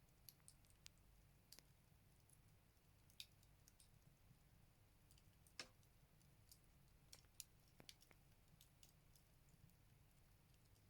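Firewood crackling as it burns in a Buleryan stove: faint, irregular pops and snaps, the loudest about five and a half seconds in.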